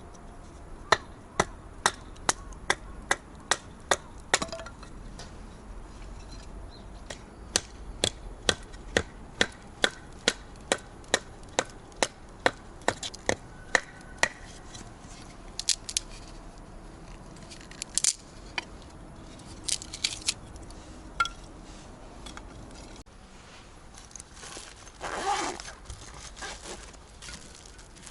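A series of quick, sharp knocks, about two or three a second, in two runs, then a few scattered knocks and a short rustle near the end.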